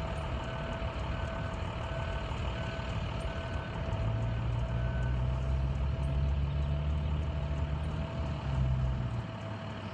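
Vehicle engine running low and steady, growing louder for a few seconds in the middle, with a steady whine. About seven short, evenly spaced beeps sound over it in the first half.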